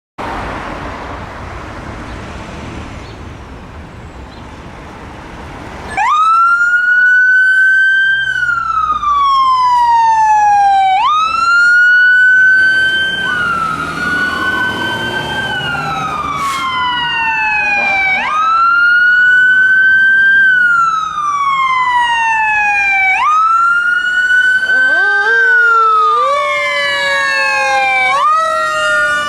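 Steady street and engine noise for about six seconds, then fire truck sirens wailing: each cycle rises quickly and falls slowly, about every five seconds. From midway on, a second siren overlaps the first, out of step with it.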